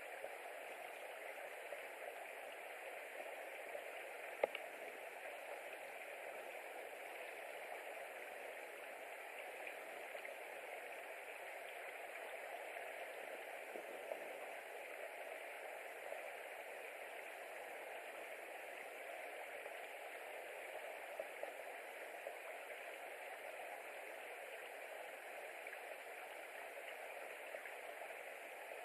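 Steady hiss with a few faint ticks, one sharper click about four and a half seconds in.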